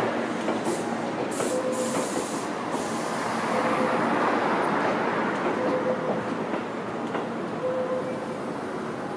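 Railway train rolling along the tracks: a steady wheel-and-rail rumble with a short tone recurring about every two seconds and a few sharp clicks in the first few seconds.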